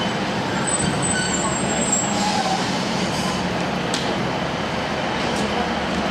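Diesel train running, a steady rumble with a faint low hum.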